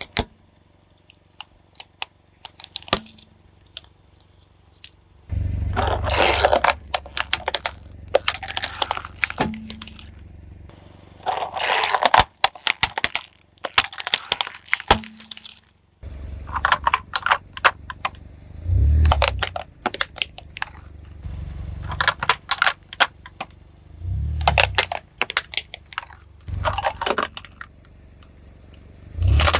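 Plastic toy vehicles cracking and crunching under a car's tyres, in repeated bursts of sharp cracks and snaps over a low engine rumble. The first few seconds are quiet.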